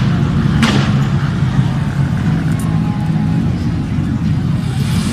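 Motorcycle engine running with a low, uneven rumble. A sharp crack sounds just under a second in.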